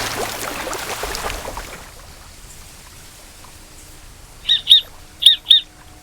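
A hiss fades away over the first two seconds. After a quiet spell, a bird gives two pairs of short, sharp, high-pitched chirps about half a second apart near the end.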